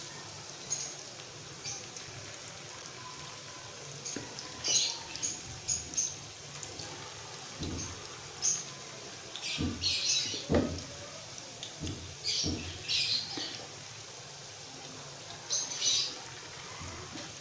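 Batter-coated beef pieces frying in hot oil in a nonstick pan: a steady sizzle with scattered sharp crackles and spits. A few soft knocks come from a spoon turning the pieces in the pan, mostly in the middle.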